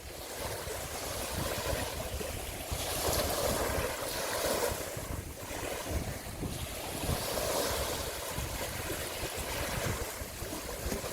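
Waves washing, with wind on the microphone, rising and falling in irregular surges every second or two.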